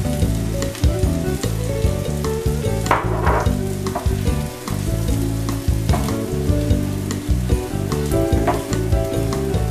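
Sliced mushrooms and onions sizzling and frying in a nonstick pan, stirred with a silicone spatula, with scattered crackles and a louder flare of sizzle about three seconds in. Steady tones that shift pitch every fraction of a second, like background music, run underneath.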